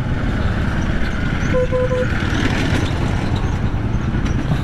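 Steady low rumble of riding a motorcycle on a rough road, with a vehicle horn giving three quick short beeps about a second and a half in.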